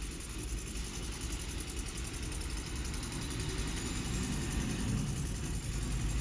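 A heavy diesel truck engine idles steadily, getting a little louder near the end.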